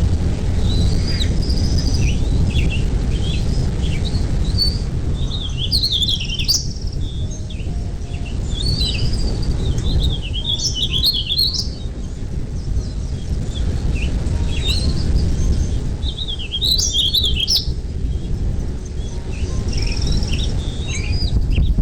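Birds chirping and calling in quick high clusters of notes, busiest about a quarter, half and three-quarters of the way through, over a steady low rumble.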